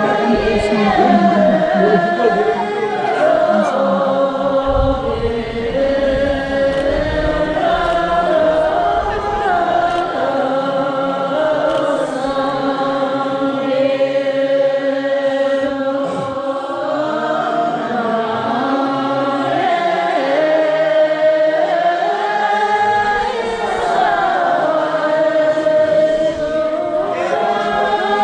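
Many voices singing together in long held notes that shift slowly from pitch to pitch, a chanted choral sound.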